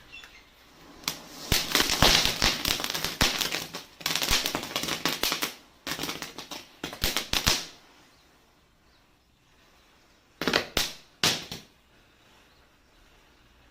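Small Diwali firecrackers and igniting matchstick heads crackling in rapid runs of sharp pops, in several bursts over about six seconds, then two short bursts a few seconds later.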